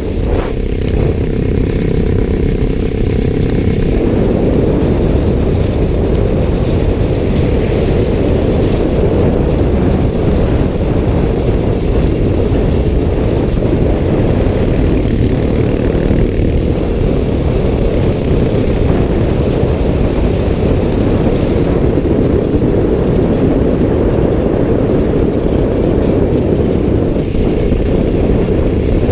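Motorcycle riding at speed, its engine running steadily under heavy wind noise on the microphone.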